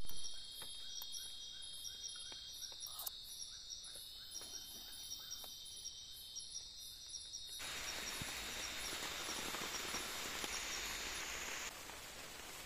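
Forest insects: a steady high drone with small regular chirps. About seven and a half seconds in, this gives way suddenly to steady rain falling.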